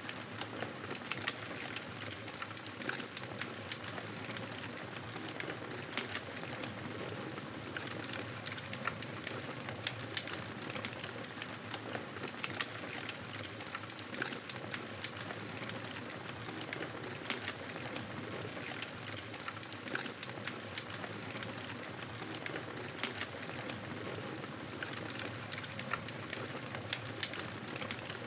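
Fireplace fire crackling steadily, with dense small pops and snaps over a soft hiss.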